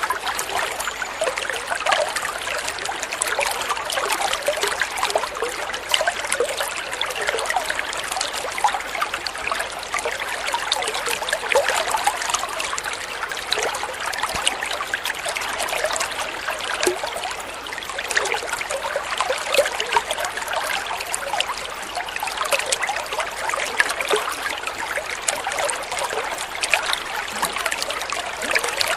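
Water flowing and trickling steadily in a small stream, with many small splashes and gurgles.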